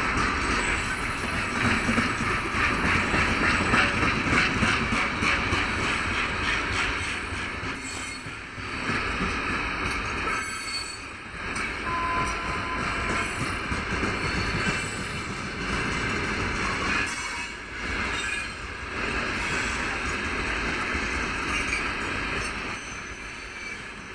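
Heavily loaded freight wagons rolling past slowly, wheels squealing and clattering on the rails, dipping briefly in loudness a few times.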